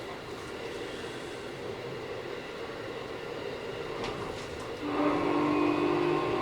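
Keikyu 1000 series train with a Mitsubishi IGBT inverter running at speed, heard from inside the car as a steady rumble with a few rail-joint clicks. About five seconds in, the train's horn starts up loud with steady tones and holds.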